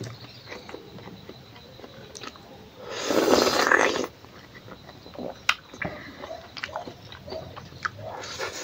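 Close-up chewing and lip-smacking of a person eating smoked pork and rice by hand, a string of short wet clicks. About three seconds in, a loud breathy rush lasting about a second stands out above the chewing.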